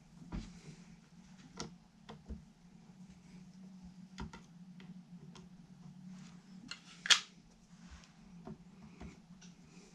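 Scattered light clicks and knocks of small tools and parts being handled on a workbench during guitar assembly, the sharpest about seven seconds in, over a steady low hum.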